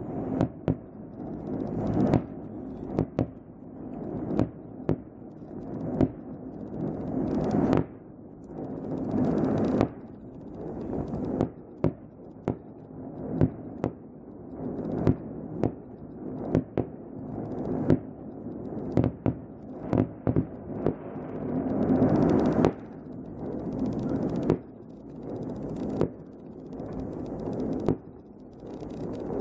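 Fireworks display: aerial shells bursting in a long run of sharp bangs, one to several a second, over a low rumble that fills the gaps between them.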